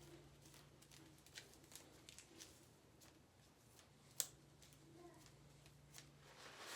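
Near silence: room tone with faint scattered ticks and one sharp click about four seconds in.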